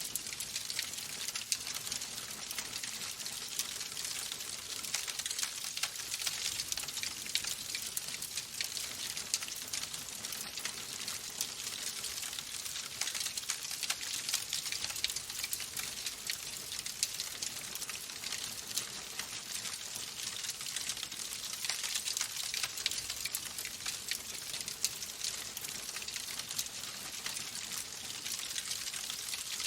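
Fire in a fireplace crackling steadily: a dense run of small pops and snaps over a constant hiss.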